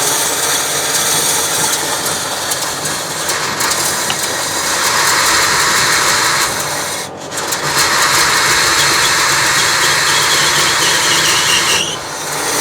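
Oldsmobile 455 V8 of a 1976 GMC motorhome started after a tune-up and running rough, running worse than ever. The sound drops briefly about seven seconds in and again near the end.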